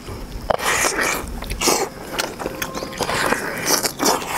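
Eating sounds: biting into and chewing a whole poached scallion-oil chicken held in the hands, in several uneven bouts of noisy chewing.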